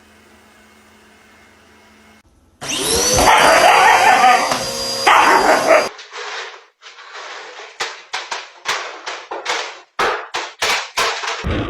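A faint hum, then about two and a half seconds in a vacuum cleaner runs up with a rising whine while a dog barks at it. In the second half a dog barks over and over, about two barks a second.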